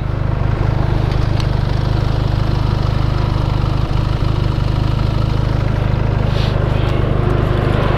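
Motorcycle engine running steadily with a constant low rumble.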